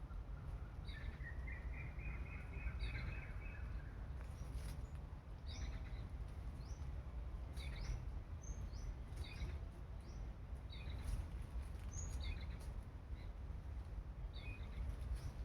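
Small birds chirping in short, high, repeated calls, with one longer warbling call a second or two in, over a steady low rumble.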